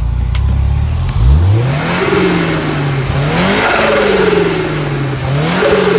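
Turbocharged Scion FR-S 2.0-litre flat-four revved up and down several times. A loud fluttering rush of air swells with each rise in revs as boost escapes through a blown-off boost line cap.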